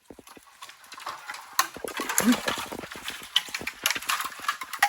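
Dry leaves and twigs rustling and crackling in forest undergrowth, irregular and much louder from about a second and a half in.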